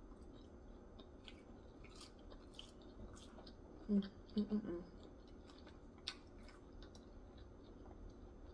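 A person chewing food close to the microphone, with faint mouth clicks, and a few louder mouth sounds about four seconds in.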